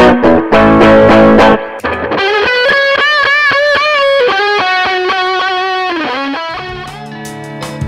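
Electric guitar with overdrive: a few hard-struck chords, then a held lead note with a wide, even vibrato that slowly dies away, and fresh notes starting near the end.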